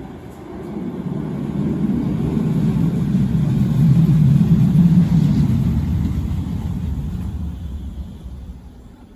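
Manchester Metrolink tram passing by: a low rumble that grows to a peak about halfway through and then fades away.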